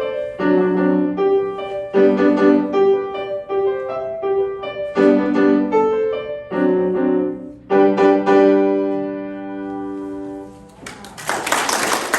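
Solo piano playing chords in a lively rhythm, ending on a long held final chord that rings out. Audience applause starts near the end.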